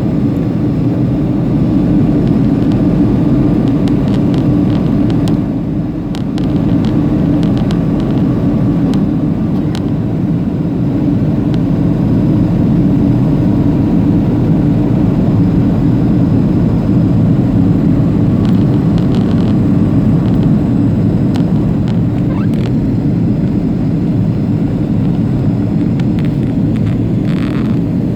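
Steady cabin noise inside a Boeing 737-500 in flight: the low drone of its CFM56 jet engines mixed with rushing airflow, with a few faint clicks.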